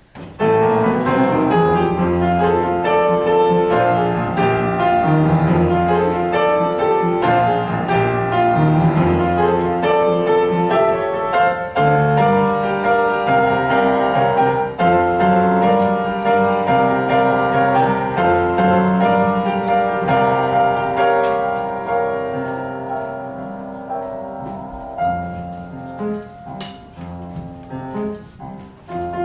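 Instrumental music led by piano, with a bass line under it, starting sharply and playing loud and steady, then growing softer over the last several seconds.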